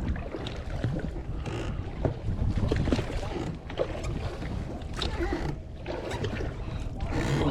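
Small boat on the water, with water sloshing against the hull and wind buffeting the microphone as a steady low rumble, broken by scattered irregular knocks.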